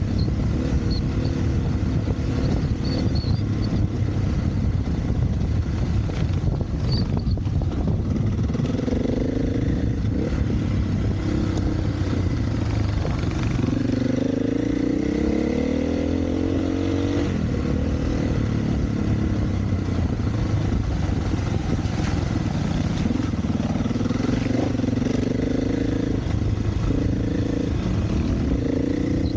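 Single-cylinder four-stroke dirt bike engine running under way. From about eight seconds in, the pitch rises and falls again and again as the throttle is opened and closed through the gears.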